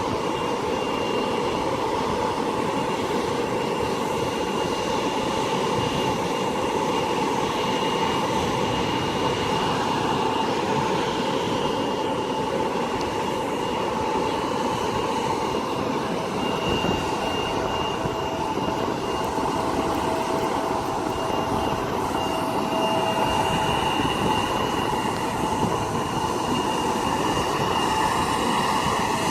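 Jet aircraft engines running steadily at idle: a constant rushing hiss with a high, steady whine.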